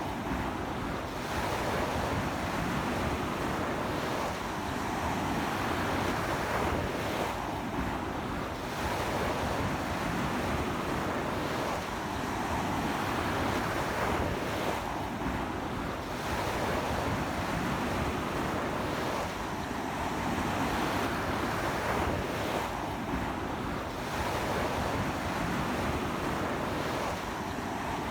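Strong surf breaking and washing up a beach in a stiff sea wind: a continuous rush that swells and eases every few seconds as each wave comes in.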